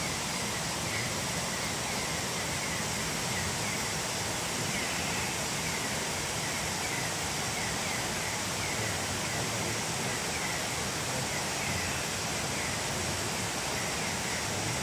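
Steady rushing of a waterfall, with short high chirps repeating over it.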